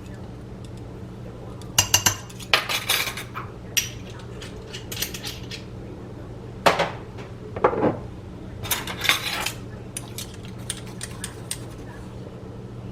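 A measuring spoon clinking and tapping against spice jars and dishes while seasonings are measured out, in scattered bursts of sharp clinks and knocks over a faint steady low hum.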